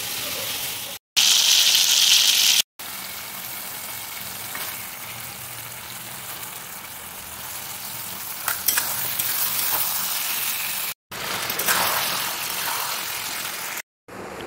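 Food frying in hot oil in a steel kadai, raw chicken pieces sizzling in spiced oil, heard as several short clips joined by abrupt cuts. A loud hissing burst about a second in, then steadier sizzling with a few crackles.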